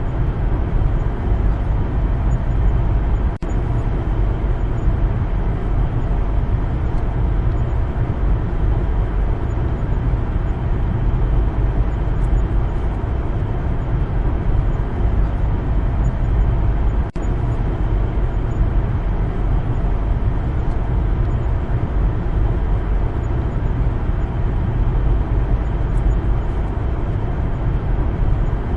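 A car driving: a steady, low rumble of road and engine noise, broken twice by a momentary dropout, about three seconds in and again about seventeen seconds in.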